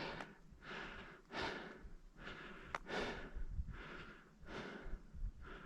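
A person breathing hard and steadily after a steep snowy climb, about seven faint breaths, with a single small click about three seconds in.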